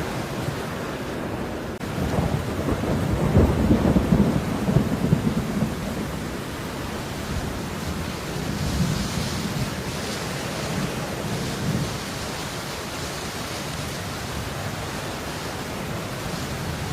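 Steady rain falling, a continuous even hiss with a heavy low rumble that swells louder for a few seconds near the start.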